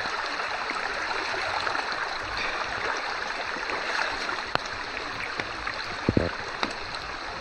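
River water rushing steadily while a person wades across it, with a few short sharp knocks and splashes from the steps, the loudest about six seconds in.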